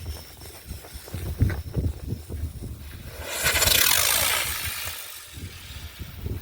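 Vintage two-colour firework spinner going off: about three seconds in it bursts into a loud hiss with a falling whistle, which fades out within about two seconds. Low thumps come before it.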